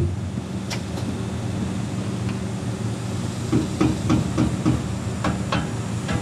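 Scattered light metallic knocks and rattles from the underside of a Mazda Miata as the car is shaken and probed for a clanking noise, over a steady low hum. The knocks come in a quick cluster in the second half.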